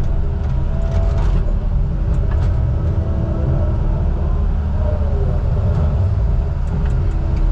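Heavy diesel engine of logging equipment running steadily with a deep rumble, with a few faint clicks over it.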